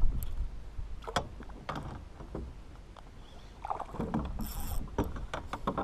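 Scattered knocks and clicks of a spinning rod and reel being handled in a plastic kayak while a hooked fish is brought alongside, with a low steady rumble underneath.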